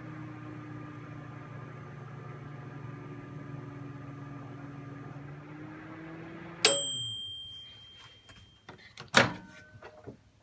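Iris Ohyama microwave oven running with a steady hum. About two-thirds of the way through, the hum stops and the dial timer's bell dings once and rings away, marking the end of the one-minute heating cycle. A few clicks and a sharp knock follow.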